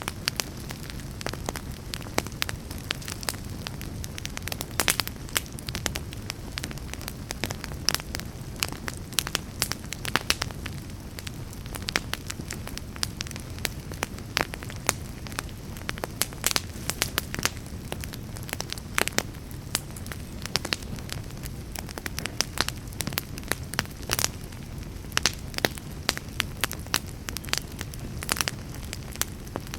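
Wood fire burning in a fireplace: many sharp, irregular crackles and pops over a steady low rumble of flames.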